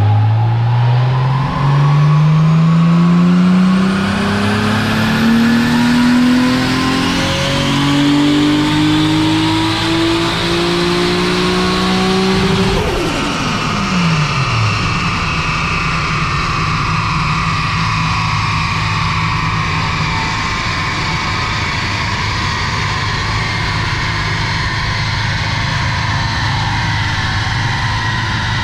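Toyota Supra's rebuilt 2JZ-GTE turbocharged straight-six making a full-throttle dyno pull, revs climbing steadily for about twelve seconds. The throttle then lifts, the revs fall away, and the engine settles to a steady idle.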